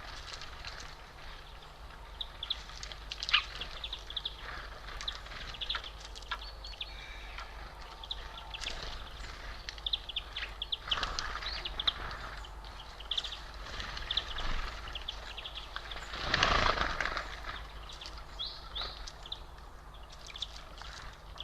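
Small birds at a feeder chirping, with many short high calls scattered throughout. About sixteen seconds in there is a louder rustling burst lasting about a second.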